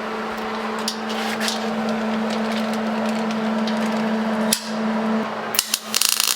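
Electric welder arc buzzing and crackling with a steady hum, broken off briefly twice and ending in a harsher, louder sputter. The welder's knobs had been knocked out of adjustment, so it is not welding right.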